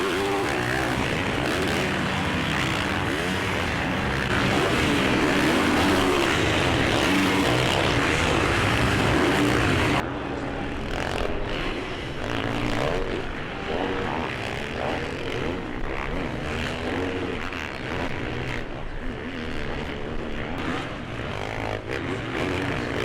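Steady engine noise, changing abruptly about ten seconds in to a quieter, more uneven stretch of engine sound.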